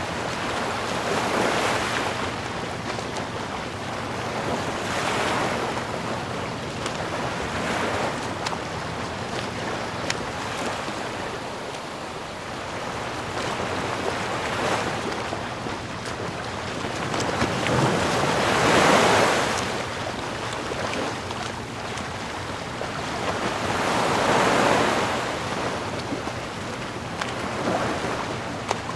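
Sea waves surging and washing back, swelling and fading every four to six seconds, the largest swell about two-thirds of the way through.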